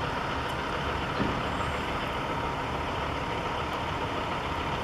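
Steady background rumble of distant road traffic, an even noise with no distinct events.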